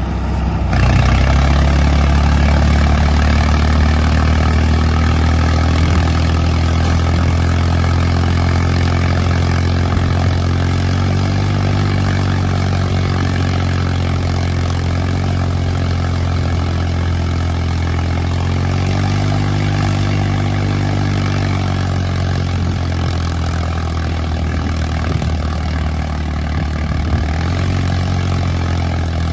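Diesel tractor engines running hard under heavy load as two tractors strain against each other in a tug-of-war. The note is steady, and its pitch sags and recovers twice.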